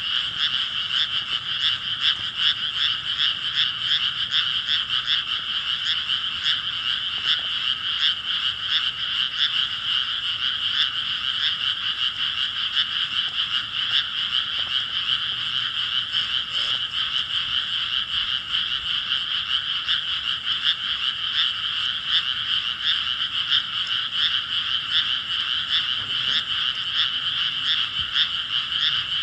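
A frog chorus: many frogs croaking at once in a dense, unbroken din of rapid overlapping calls that holds steady throughout.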